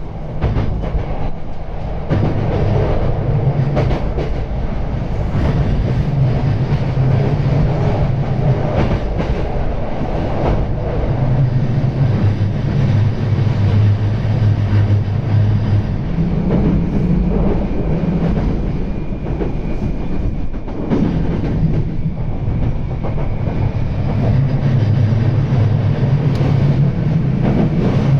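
E235 series electric train running along the line, heard from inside a passenger car: a steady low rumble with scattered clicks of the wheels over the rails.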